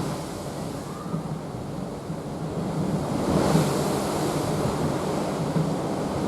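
Sea water rushing along the hull of a moving cruise ship, with wind on the microphone and a low rumble underneath. The rush swells and grows brighter about halfway through.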